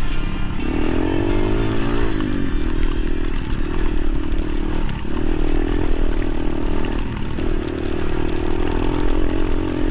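Motorcycle engine running under way, its pitch dropping and climbing again three times as the throttle is rolled off and back on, over steady wind and road noise.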